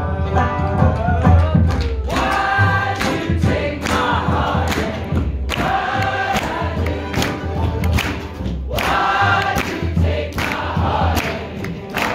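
Acoustic band playing live, with several voices singing together over strummed strings and a plucked upright bass, on a steady beat of about two strokes a second.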